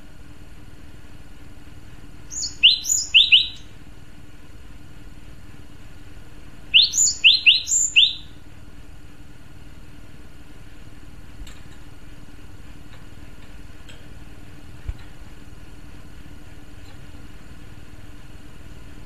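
Male gelatik batu (cinereous tit) calling in two short bursts of quick rising notes, about two seconds in and again about seven seconds in, over a steady low hum. After that only the hum remains, with a few faint ticks.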